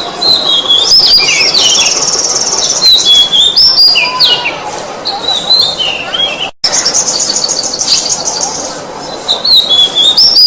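Oriental magpie-robin (kacer) singing loud whistled phrases that slide up and down in pitch, twice breaking into a rapid buzzy trill. The sound drops out briefly about two-thirds of the way through.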